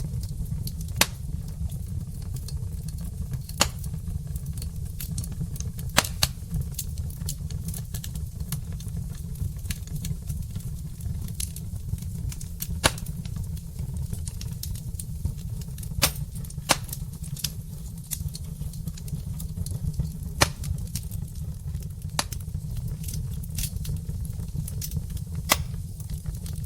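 Log fire in a fireplace, crackling with irregular sharp pops, a loud one every couple of seconds, over a steady low rumble.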